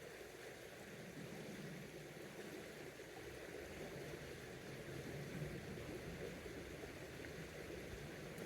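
Creek water flowing, a faint steady rush.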